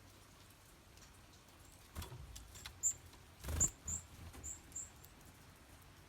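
About five short, very high-pitched calls from a small songbird in quick succession, with a sharp knock about two seconds in and a brief, louder rustle about a second and a half later.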